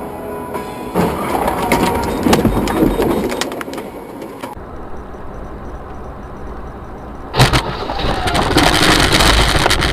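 Vehicle and road noise, which changes abruptly twice and becomes loud with a sudden jump about seven seconds in.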